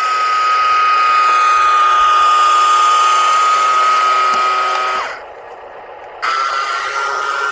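A steady, high-pitched whistle-like tone held for about five seconds and cutting off sharply. A second, slightly higher tone starts about a second later.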